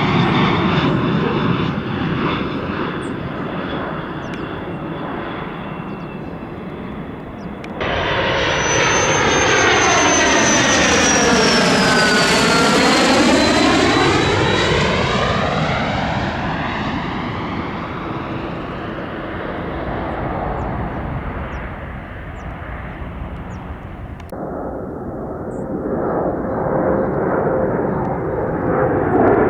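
F-35A's single Pratt & Whitney F135 afterburning turbofan jet engine roaring as the fighter flies by. About eight seconds in, the sound jumps abruptly to a closer pass that swells, with a high whine falling in pitch as it goes by, then cuts abruptly again to a more distant roar.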